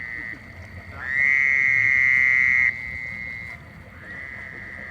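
Frogs singing: several long, steady high trills of about two seconds each, one overlapping the next, with a loud nearby one starting about a second in.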